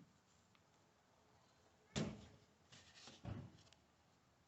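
Two dull knocks, about two seconds in and again a second later, as the hot-water isolation valve on the tankless water heater's plumbing is handled; otherwise near silence.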